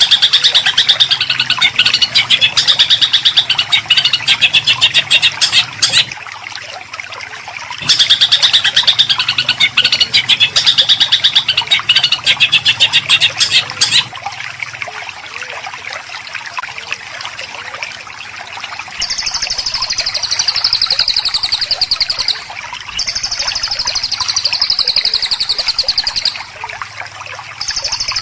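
Songbird singing rapid, harsh 'tembakan' bursts of fast repeated notes, two long bursts of about six seconds each separated by a short pause. After a quieter stretch, a higher, rattling trill follows in two shorter bursts near the end.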